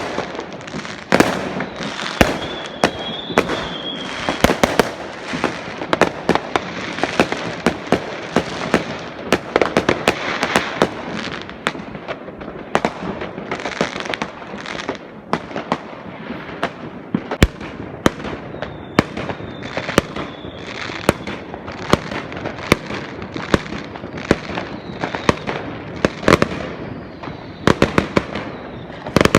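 New Year fireworks going off: a dense, irregular barrage of sharp bangs and cracks over continuous crackling, with a faint high wavering whistle now and then.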